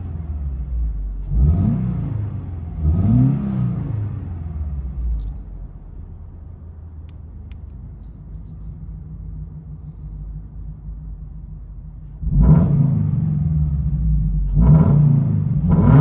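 Subaru BRZ (ZD8) 2.4-litre flat-four boxer engine through a Max Racing full exhaust (unequal-length header, over pipe, front pipe, valved cat-back): two quick throttle blips, revs rising and falling back, then settling to a quieter idle. About twelve seconds in the exhaust note jumps suddenly louder and holds a deeper steady idle, with one more blip near the end.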